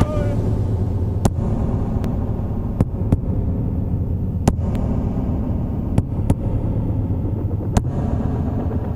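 Industrial noise drone from live electronics: a steady low rumble with sharp clicks or knocks striking at irregular intervals, about eight times.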